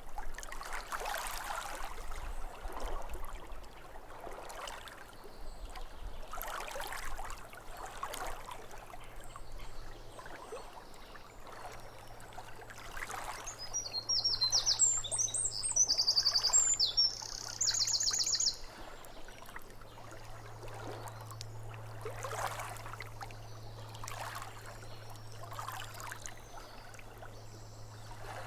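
Lake water lapping against the shore in soft, irregular swells every second or two. About halfway through, songbirds sing and trill for a few seconds.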